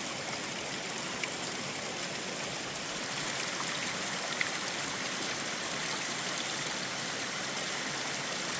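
Steady rush of running water, with a couple of faint ticks.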